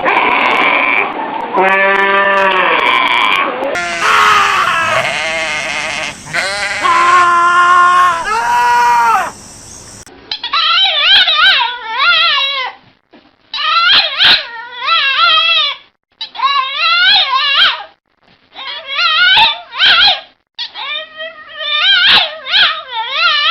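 Animal calls: long, loud, pitched cries for the first ten seconds, then a run of short wavering cries in groups with brief pauses between them.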